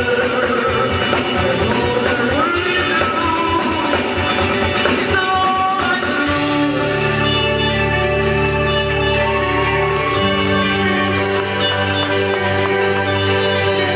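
Rock band playing with a singer over a quick steady beat. About six seconds in, the singing gives way to long held chords and bass notes.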